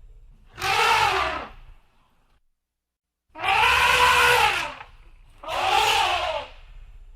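Elephant trumpeting: three loud calls about a second apart. Each rises and then falls in pitch, and the middle one is the longest.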